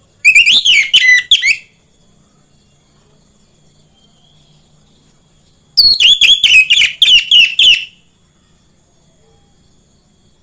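Orange-headed thrush song played as a lure recording: two loud phrases of rapid, varied whistled notes, the first about a second and a half long and the second about two seconds, with a steady high hiss underneath.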